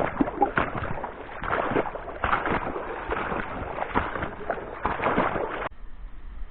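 Thin ice being broken up on a marsh pond: irregular crunching and cracking with water sloshing, several knocks a second. It cuts off suddenly near the end.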